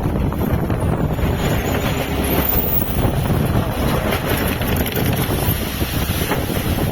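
Strong wind buffeting the microphone on a small fishing boat at sea, a steady loud rumbling rush with the noise of the boat and sea beneath it.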